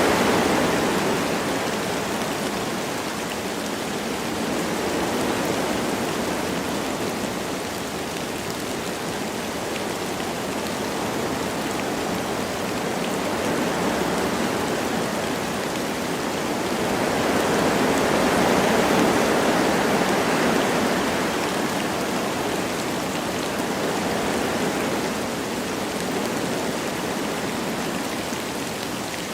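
Wind blowing through forest trees with a light rain falling, a steady rushing noise that swells in a gust at the start and again about two-thirds of the way through.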